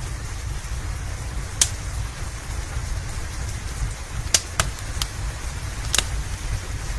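Steady rain hiss over a low rumble, with about five sharp pops from a crackling wood fire, the loudest a little past four seconds in.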